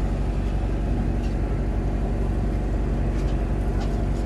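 Steady low engine hum, running evenly, with a few faint ticks.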